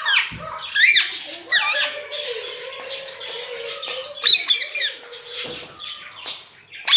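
Indian ringneck parrot squawking, a run of about five shrill calls a second or so apart.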